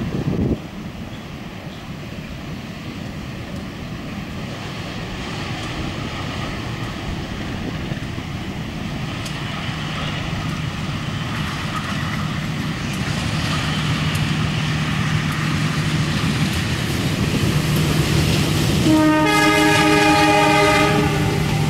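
Diesel-hauled passenger train approaching, its running noise and engine growing steadily louder, then the locomotive sounds its horn in one long blast for about two and a half seconds near the end.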